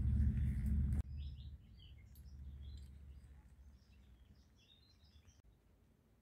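Small birds chirping, short high chirps scattered through the middle of the stretch. A low rumble opens it and stops abruptly about a second in.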